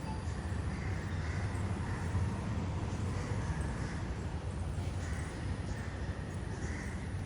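Mynah birds calling with short harsh calls every second or two, over a steady low rumble.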